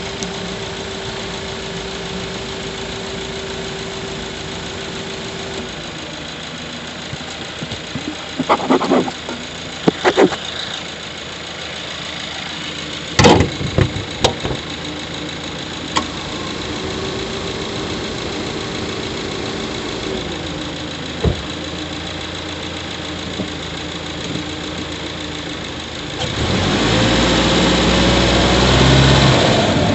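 Subaru Levorg 1.6GT-S's 1.6-litre turbocharged flat-four running, heard from inside the engine bay near the intake. A few short sharp sounds cut in about a third of the way through and again near the middle, and the engine gets louder, pulling harder, near the end.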